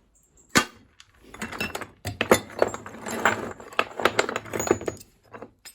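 A single sharp clink, then about four seconds of small metal scrap pieces clattering and clinking together as they are handled and sorted.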